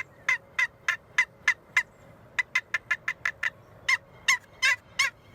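Turkey box call worked by hand, giving a series of short, sharp yelps in three runs, the middle run quicker and the last louder. It imitates a hen turkey's call, used to call in toms.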